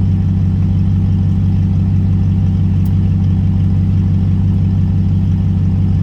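Volvo XC90's 4.4-litre V8 idling steadily through a straight-piped exhaust, with no revving.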